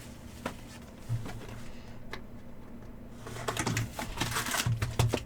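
Cardboard hobby boxes and card packs being handled and opened: scattered light clicks and rustles that come thicker and faster in the second half, over a steady low hum.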